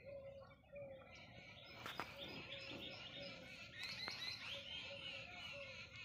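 Small birds chirping and twittering in a chorus, with a short note repeated about twice a second underneath. A sharp click about two seconds in.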